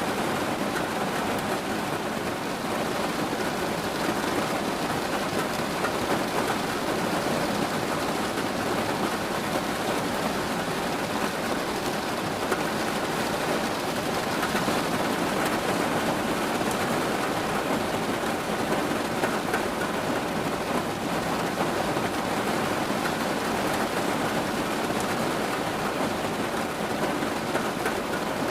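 Steady rain falling, an even, unbroken hiss of drops with no thunder or single distinct drops standing out.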